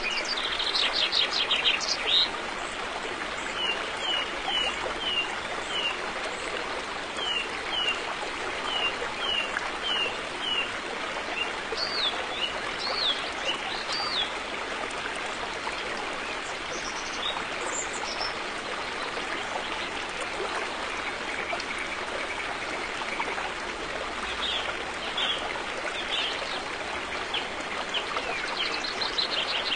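River water flowing steadily. Over it, birds chirp in runs of short, quick falling notes, clustered near the start, through the first half and again near the end.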